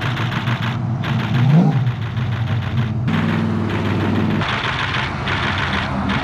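Car engines running at a low, steady idle, with one brief rev about a second and a half in; the engine sound changes abruptly at about one and three seconds.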